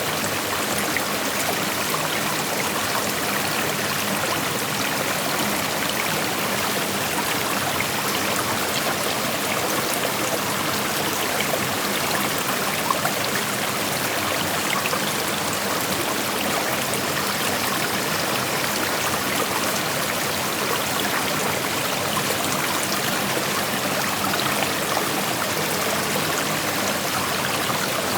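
Creek water flowing and rushing steadily over rocks, with small splashes and trickles in the constant noise of the water.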